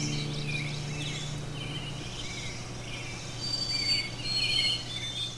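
Several small birds chirping and twittering in quick short calls, with a few thin, high whistled notes in the last couple of seconds. Under them, a low held note lingers from the music.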